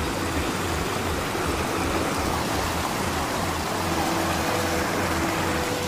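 Steady rushing outdoor noise with an uneven low rumble underneath, the kind made by wind on the microphone or by moving water.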